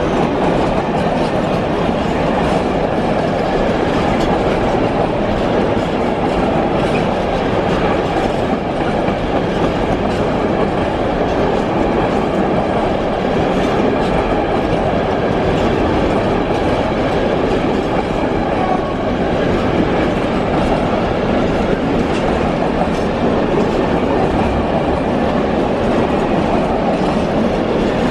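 Container freight train's wagons rolling past close by: a steady rumble of steel wheels on rails with clickety-clack over the rail joints.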